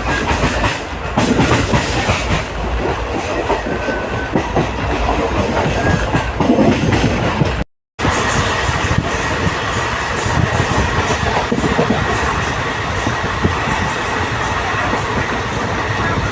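A passenger train running along the track, its wheels clattering over the rail joints over a steady rumble. The sound cuts out briefly about halfway through, and a faint steady whine sits under the clatter in the second half.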